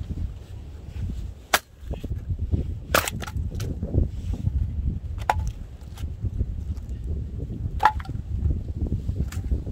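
Scrap wood being broken up into kindling: about six sharp, irregular cracks of wood splitting and snapping, over a steady low rumble.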